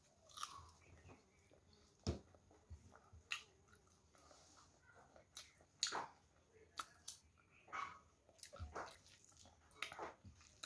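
Faint close-up eating sounds of chicken curry and rice eaten by hand: irregular wet lip smacks and chewing clicks, roughly one every second.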